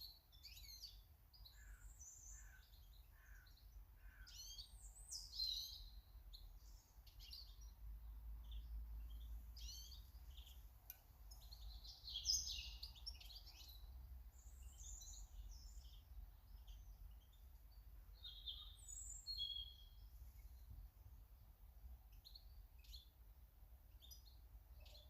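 Small garden birds chirping and singing, faint: many short high chirps and trills, with a run of four lower notes in the first few seconds. A steady low rumble runs underneath.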